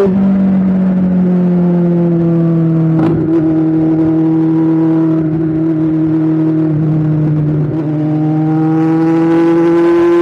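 Superbike engine running at steady high revs on the move. The pitch eases slowly downward, then climbs again from about eight seconds in as it accelerates.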